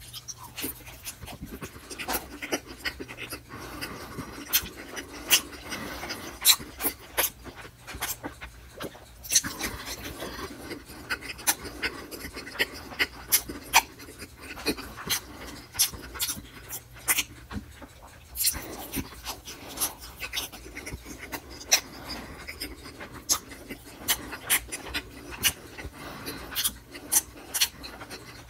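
Close-miked wet chewing and lip smacking of a soft food, with frequent sharp mouth clicks and smacks coming in irregular clusters.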